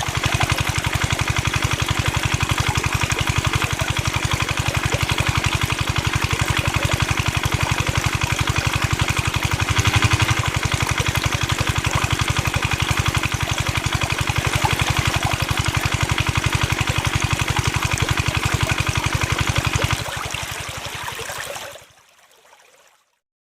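Small motor of a mini DIY water pump running with a fast, even pulse while water splashes and trickles. The motor cuts out about twenty seconds in, the water runs on briefly, then dies away.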